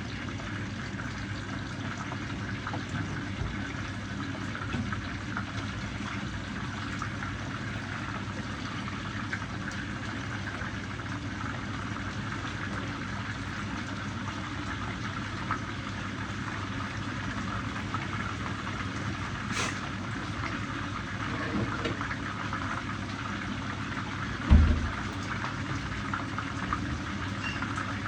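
A pot boiling on the stove, a steady bubbling with a low hum under it. A single dull thump near the end.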